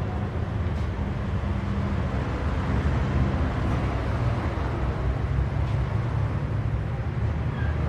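Chevrolet C10 pickup's exhaust, fitted with headers and an aftermarket muffler, running at a steady idle with a deep, even note.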